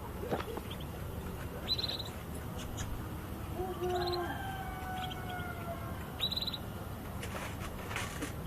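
Canary giving short, high chirps a couple of seconds apart, each ending in a quick falling trill. A longer, lower drawn-out tone sounds for about two seconds in the middle, over a faint steady background noise.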